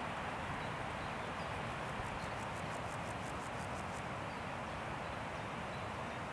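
Wind rushing steadily through forest trees. From about a second and a half in, a high, rapid ticking call, about six ticks a second, runs for a couple of seconds and stops.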